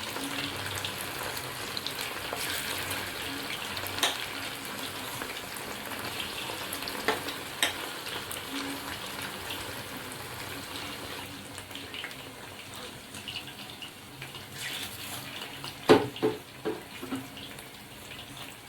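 Chicken strips deep-frying in hot oil: a steady sizzle with crackles that slowly dies down as the pieces finish frying. There are a few sharp knocks, with a cluster of them about 16 seconds in.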